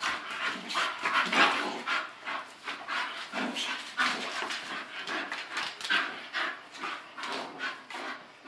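English bull terriers play-wrestling, panting and breathing hard in quick, irregular huffs, a few a second.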